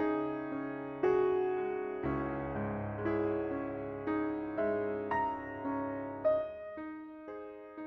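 Soft solo piano background music, a slow gentle melody over held bass notes; the bass drops away near the end, leaving the upper notes.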